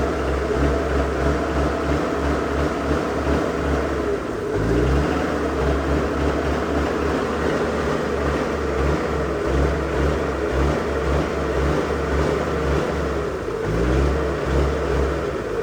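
An engine running steadily with a rhythmic low throb, slowing briefly and picking back up twice, about four seconds in and again near the end.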